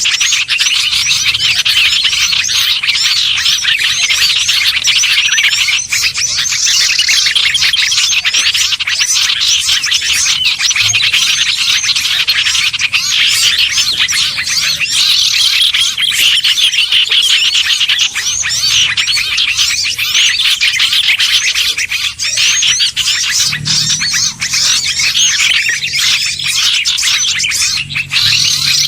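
A dense, continuous chorus of many small songbirds chirping and twittering over one another without a break: a mixed bird-lure (pikat) recording made to draw small birds in.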